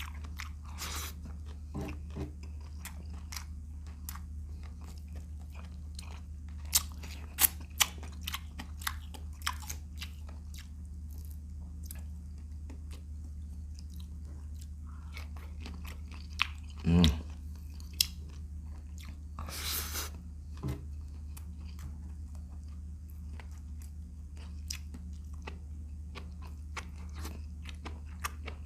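Close-up chewing and biting of shrimp, with many sharp crunches and clicks of the shells being bitten and a couple of louder mouth sounds near the middle. A steady low hum runs underneath.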